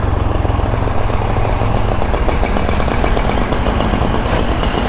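Motorcycle engine held at high revs: a loud, rapid, steady beat that keeps an even level throughout.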